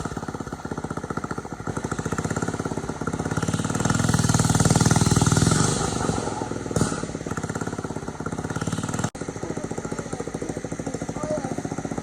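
Small single-cylinder engine of a 1979 Thunderbird mini bike running while being ridden. It gets louder under throttle between about three and six seconds in, then eases back, with a brief cut about nine seconds in.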